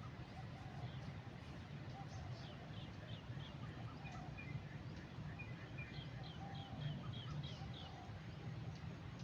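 Wild birds calling over a steady low outdoor rumble: one bird gives a run of short, quick high notes about two seconds in and a longer run of them around six seconds in, with softer scattered calls between.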